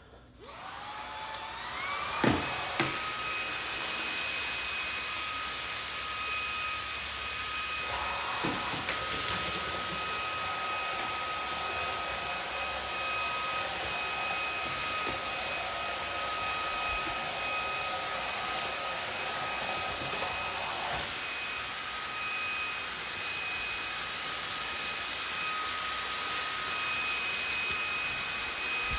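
Cordless stick vacuum's motor spinning up with a rising whine, then running steadily with a high whine and hiss as it sucks up scattered garden soil. A couple of knocks sound a few seconds in.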